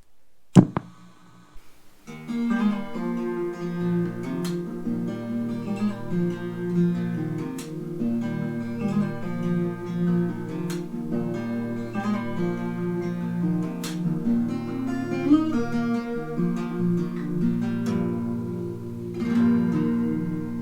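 Acoustic guitar riff: chords are strummed, with an accented strum about every three seconds. It starts about two seconds in, after a single sharp knock.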